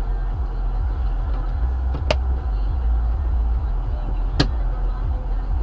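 Steady low rumble of a moving car's road and engine noise, with two short sharp clicks about two seconds apart.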